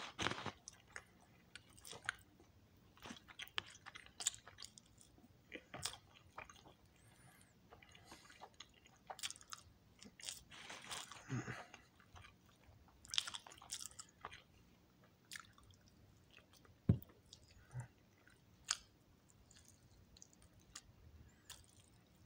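A person chewing food close to the microphone, with irregular short clicks and brief bouts of louder chewing.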